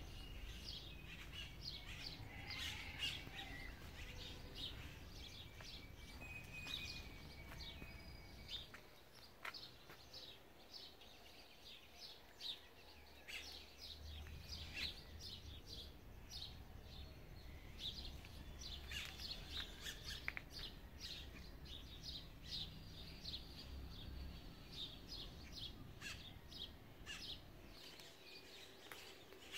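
Birds chirping: many short, high calls scattered throughout, over a faint low rumble.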